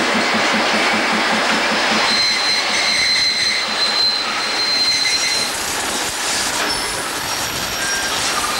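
A work train of hopper wagons and an SJ T44 diesel locomotive passing close by, rolling over the rails with a fast regular beat at first. From about two seconds in, the wheels squeal in thin, steady high-pitched tones over the rolling noise.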